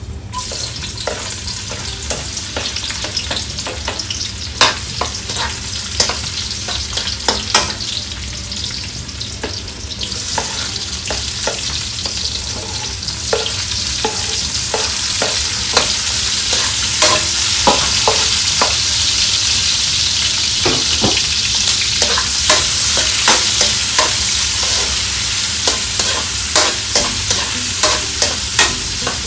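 Garlic and onion sautéing in hot oil in a metal wok, with a spatula scraping and tapping against the pan in many short clicks. The sizzle grows louder about ten seconds in and again around fourteen seconds in.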